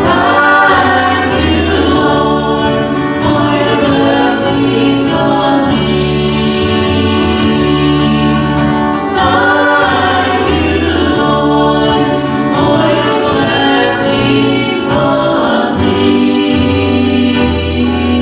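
A group of voices singing a gospel hymn, with held bass notes of an instrumental accompaniment beneath.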